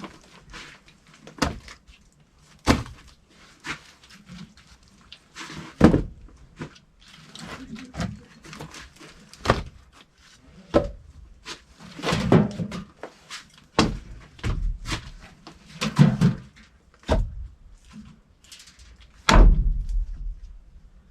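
Irregular clicks, knocks and heavier clunks of metal and plastic parts and tools being handled and set down, about one every second or so, with a few louder thuds near the middle and end.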